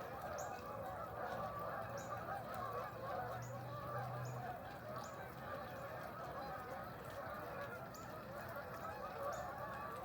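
A flock of birds calling together in a dense, continuous clamour, with short high chirps repeating about every half second.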